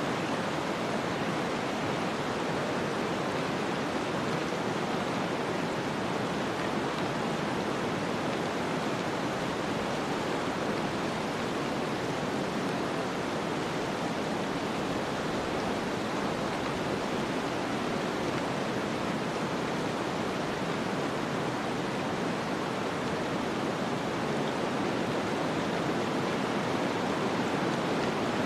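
Snowstorm wind ambience: a steady, even rush of noise that holds unchanged throughout, with no crackles or other distinct sounds standing out.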